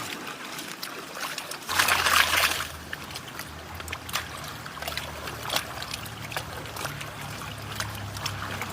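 Water sloshing and trickling during gold panning, with a louder splash about two seconds in and scattered small clicks. A low steady hum starts with the splash and runs on.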